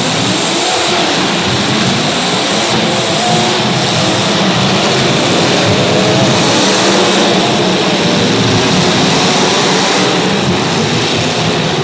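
Several race car engines running together on track, a dense, loud, steady drone whose pitch wavers up and down as the cars accelerate and ease off.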